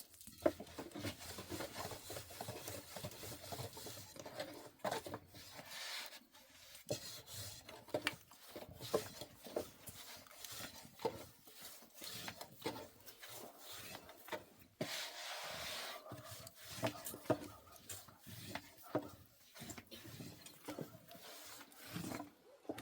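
Irregular rubbing and scraping with scattered light knocks on wood, as of hands working something on a wooden surface.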